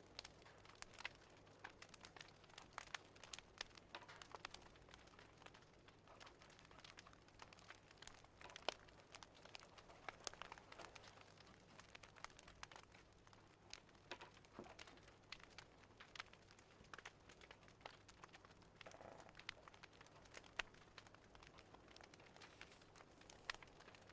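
Faint wood fire crackling, with irregular small pops and snaps over a soft hiss.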